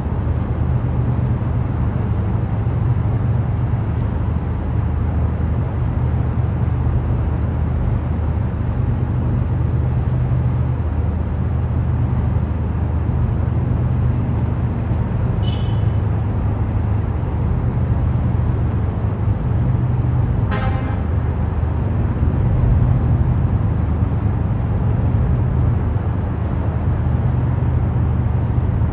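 Steady low city traffic rumble, with two brief, sharp, high sounds partway through, about five seconds apart.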